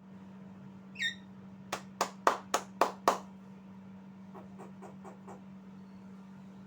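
A Javan myna gives a short call that falls in pitch, then six sharp clap-like snaps follow at about three to four a second, then five fainter clicks. A steady low hum runs underneath.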